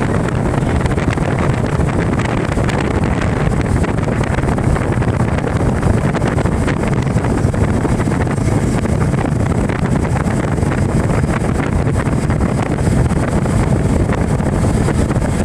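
Motorboat under way: its engine runs steadily under a rush of water, with wind buffeting the microphone.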